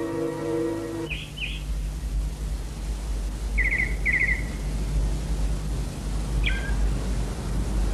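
Birds calling over a low steady rumble: two short chirps about a second in, two quick trills around the middle, and more short calls near the end. A held music chord stops about a second in.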